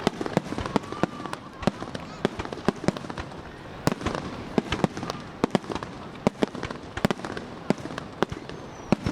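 Aerial fireworks going off in a rapid, irregular string of sharp bangs and cracks, about two or three a second.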